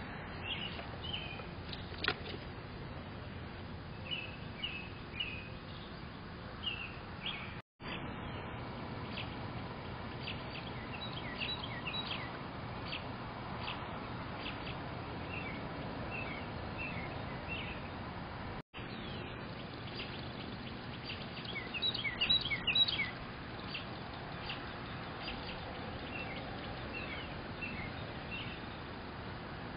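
Wild songbirds chirping in short, repeated calls, busiest and loudest about 22 seconds in, over steady low background noise.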